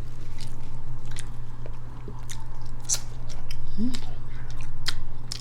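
Close-miked chewing and lip-smacking of tender pork adobo and rice, with irregular short wet mouth clicks over a steady low hum.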